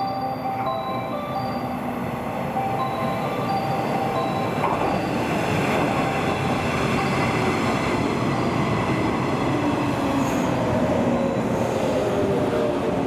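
JNR 115 series three-car electric train pulling into a station platform, its running noise growing louder from about five seconds in. Near the end a falling whine is heard as the train brakes and slows. A few short steady tones sound over the first few seconds.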